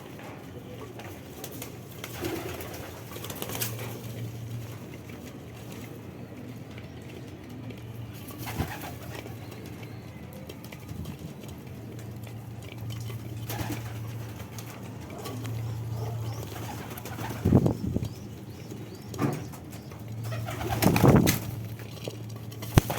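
Pigeons cooing in low, repeated phrases, with a few louder short noises near the end.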